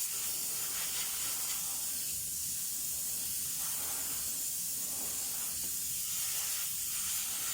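Aerosol can of carburetor cleaner spraying in one long, steady hiss into a carbon-fouled throttle body.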